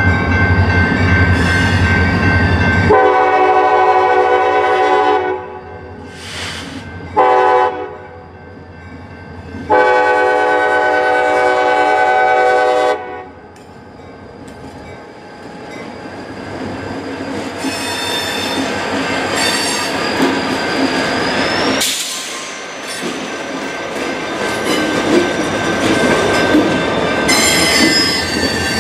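Diesel freight locomotive's air horn sounding a long blast, a short one and another long blast, then the train rumbling past with wheels squealing and clicking over the rail joints.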